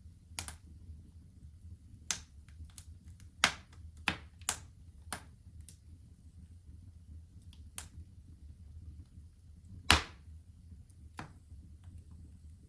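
Wood fire crackling in a fireplace: irregular sharp pops and snaps, a cluster of them between about two and five seconds in and the loudest pop near ten seconds, over a low steady rumble.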